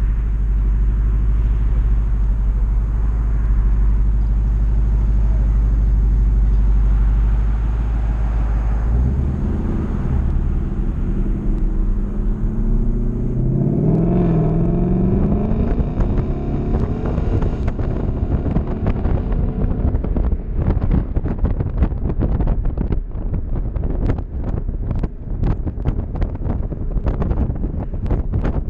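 Ford Mustang convertible's engine idling at a stop, then revving up as the car pulls away, its pitch rising and stepping back twice. For the last ten seconds or so, wind buffets the microphone in irregular gusts as the open car gains speed.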